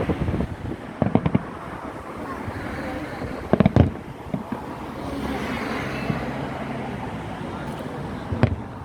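Fireworks going off in bursts of sharp bangs: a few about a second in, the loudest cluster around the middle, and another bang near the end, over a steady background of wind and crowd noise.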